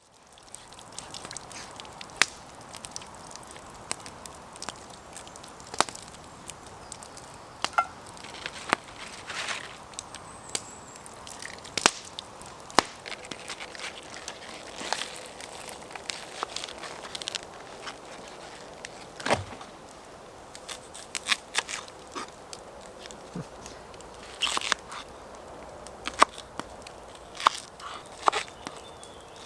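Wood campfire crackling: irregular sharp pops and cracks, a few of them loud, over a steady low hiss.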